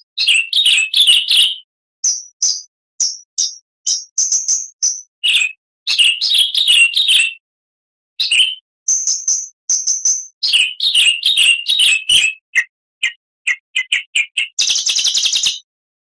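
Oriental magpie-robin (kacer) singing: quick runs of clear high whistled notes and chattering phrases, broken by short pauses, with a harsh buzzing trill near the end.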